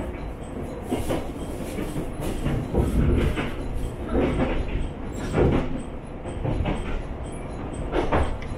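Inside a KTR700 diesel railcar running along the line: a steady low rumble of running noise, with the wheels clattering over the track at irregular intervals, about every second or two.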